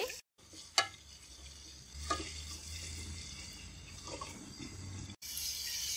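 Garlic-ginger paste sizzling gently as it fries in hot fat in an aluminium pot, stirred with a wooden spatula. A few light scrapes of the spatula against the pot come through over the faint sizzle.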